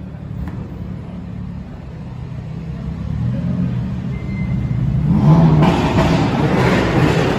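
Car engine running with a deep rumble that builds steadily, then a loud rev or acceleration about five seconds in.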